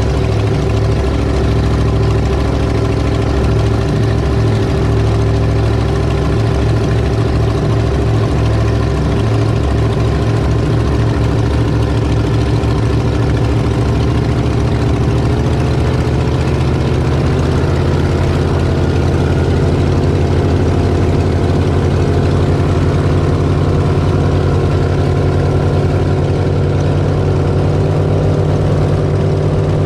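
Twin V8 engines of an Avanti 33 power boat running at a steady speed, with a slow pulsing beat in the low engine note through the first half that then settles.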